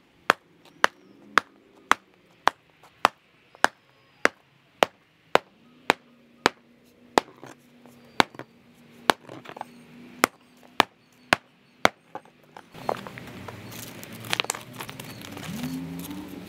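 A steel demolition tool striking a cracked concrete slab: sharp, evenly spaced blows about two a second. About two-thirds of the way through the blows stop and give way to a steady noisy background with scattered scraping and knocking.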